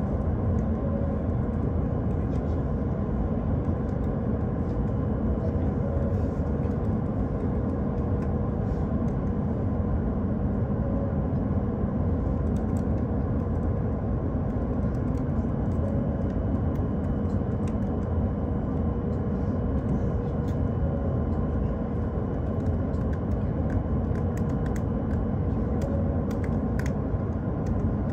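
Steady low rumble and hum of a Joetsu Shinkansen train standing at a station during a scheduled stop, with a faint steady whine over it.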